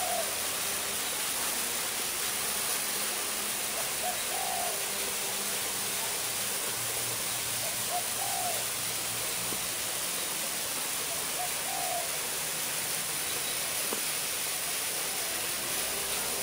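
A bird's short hooting call, repeated about every four seconds, over a steady high hiss.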